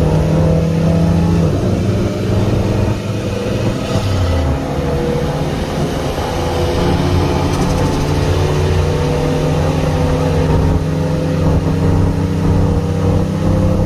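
Turbocharged Mitsubishi Lancer 4B11T four-cylinder engines running under way at highway speed in a roll-start race, heard from a car pacing alongside. A steady engine note that drops in pitch twice in the first few seconds.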